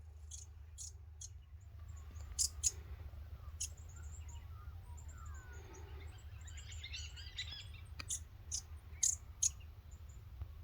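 Small birds calling in the scrub: sharp, short high chirps at irregular intervals over a thin high twittering, with a busier burst of chattering notes around the middle. A low steady rumble runs underneath.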